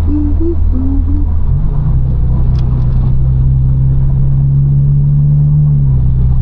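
Straight-piped BMW 428i's turbocharged four-cylinder exhaust running at a steady high pitch under way, stepping up in pitch about a second and a half in and easing slightly lower near the end.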